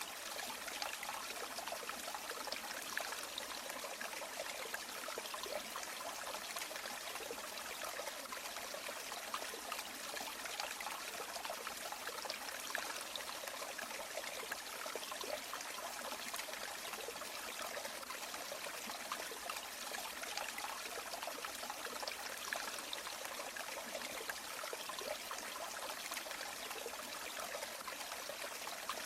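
Flowing river water: a steady, even rush with fine trickling and splashing detail.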